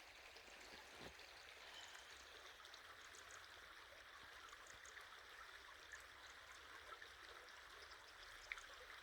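A stream's water running steadily and faintly, with a few short, faint high bird chirps scattered through it.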